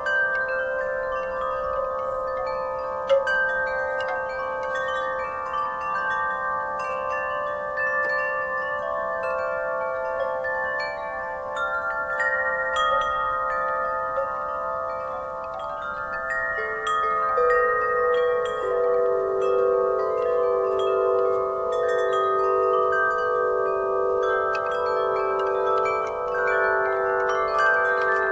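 Wind chimes ringing continuously in the breeze, many long-ringing tones overlapping with light strikes. A lower chime joins in a little past halfway and keeps sounding.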